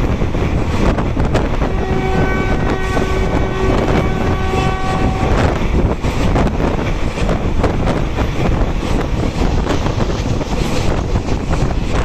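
Wind buffeting the microphone over the steady running noise of a train at speed, heard from its open doorway. About two seconds in, a steady pitched tone is held for about three seconds.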